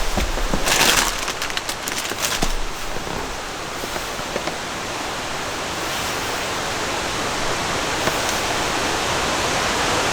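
Steady rain hiss, with a few sharp taps in the first couple of seconds.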